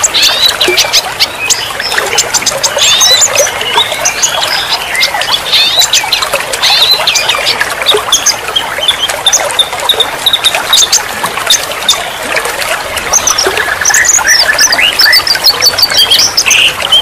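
Several songbirds chirping, whistling and trilling in fast overlapping phrases over the steady sound of running, splashing water.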